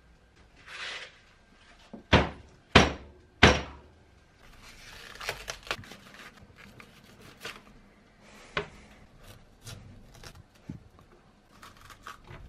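Three loud thunks a little under a second apart, then lighter clicks, taps and rustling: everyday household handling noises.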